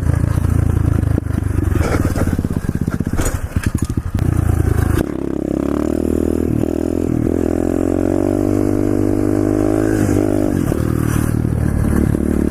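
SSR pit bike's single-cylinder four-stroke engine running under way, with wind noise. About five seconds in the sound drops, then the engine note climbs steadily, broken twice by brief dips that sound like gear changes, before the throttle eases off around ten seconds in.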